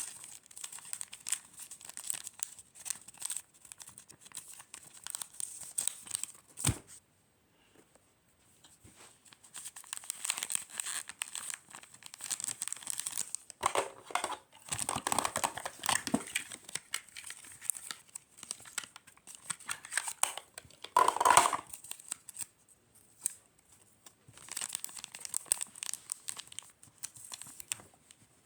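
Wrapping material being handled by hand: bouts of crinkling, rustling and tearing, with a sharp knock about seven seconds in, a brief pause after it, and louder bursts of crinkling about halfway through and again near two-thirds of the way.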